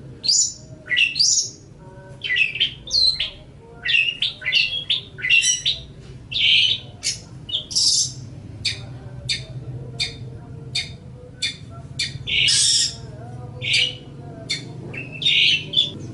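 Long-tailed shrike (cendet) singing a fast, varied chatter of short chirps, quick whistled slides and harsh scratchy notes, with brief gaps between the phrases.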